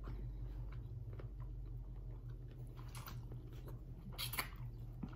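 Close-miked chewing and mouth sounds of people eating seafood, soft wet clicks with a couple of louder smacks about three and four seconds in, over a steady low hum.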